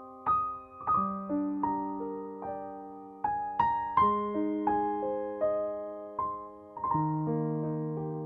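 Gentle solo piano background music: slow broken chords, each note struck and left to ring, with the bass chord changing every few seconds.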